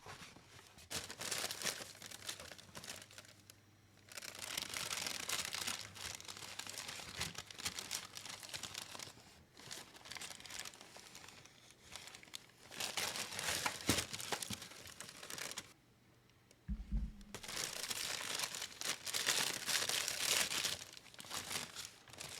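Packaging being opened by hand: crinkling and tearing in several stretches with short pauses between them. There is a sharp click about two-thirds of the way through and a low thump a few seconds later.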